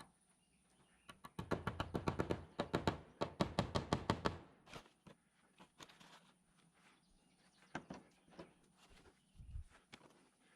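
A fast, even run of sharp knocks, about eight a second for some three seconds, followed by a few scattered single knocks.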